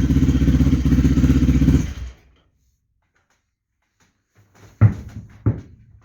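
Motorcycle engine idling with an even beat, then switched off about two seconds in and dying away. Two knocks follow near the end.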